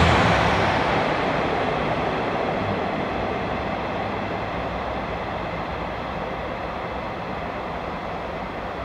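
A train moving away along the platform tracks, its running noise fading steadily into a faint hiss.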